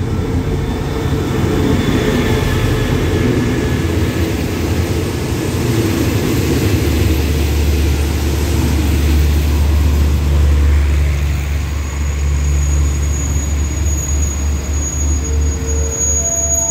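A passenger train hauled by an SRT QSY-class diesel-electric locomotive pulls into the station and rolls past: a steady low diesel rumble with the running of the coaches' wheels along the platform, slowing as it comes in to stop.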